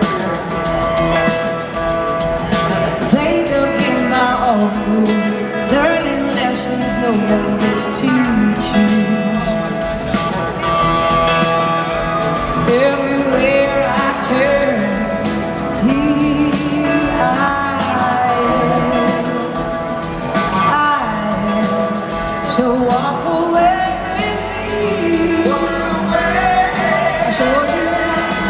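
Live rock band playing a song: a full band holds sustained chords while a lead melody line bends and glides in pitch above it.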